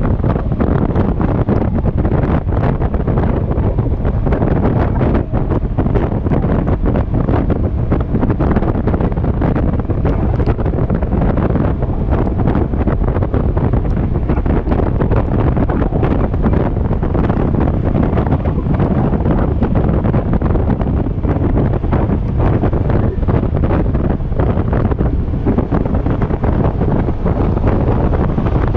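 Steady, loud wind buffeting on an action camera's microphone while riding a Yamaha XMAX scooter on the freeway, a heavy low rumble with constant crackle.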